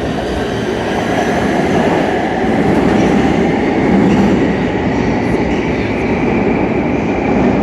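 LA Metro D Line subway train departing the station and running over the interlocking (track switches) just beyond it, a loud steady rolling noise that swells to its peak about four seconds in.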